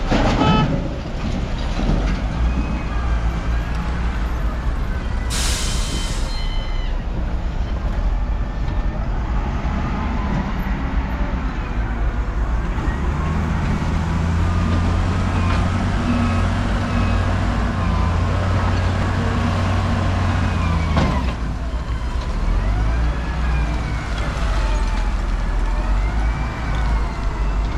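Heavy road traffic with diesel trucks passing, a short sharp hiss like an air brake about five seconds in. A heavy engine drones loudly through the middle and cuts off suddenly about 21 seconds in.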